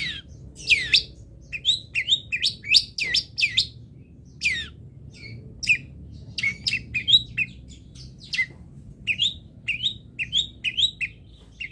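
Long-tailed shrike (cendet) singing a rapid, varied run of sharp chirps and steep downward-sweeping notes, a few each second, as a masteran track for training cendets.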